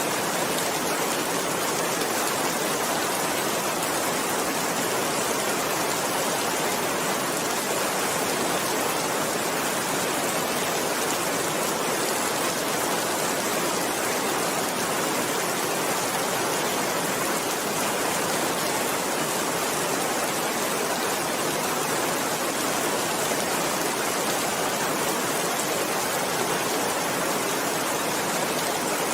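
Steady rain: an even hiss that holds the same level throughout, with no thunder or single drops standing out.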